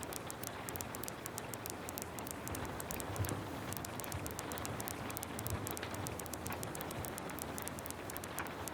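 Steady rain falling, with a dense patter of small, sharp drop ticks over an even hiss.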